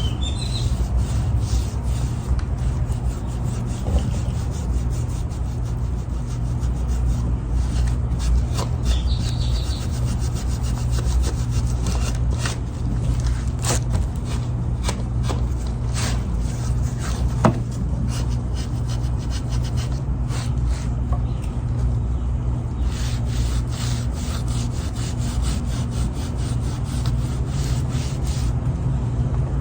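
Cloth rag scrubbing wood stain into a wooden board in repeated rubbing strokes, over a steady low hum.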